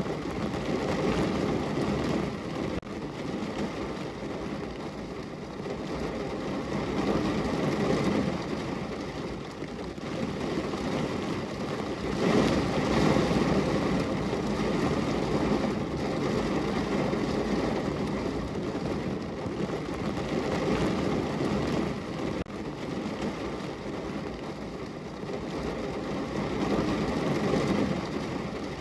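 Rain falling against a window pane: a steady wash of noise that swells and eases every few seconds, loudest about twelve to fourteen seconds in.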